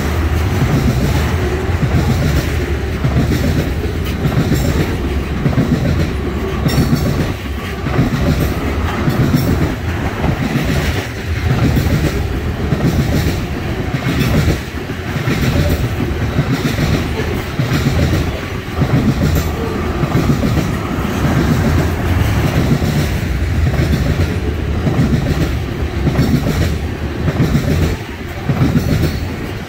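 Freight train of ethanol tank cars rolling past, steel wheels clacking in a steady rhythm over the rail joints.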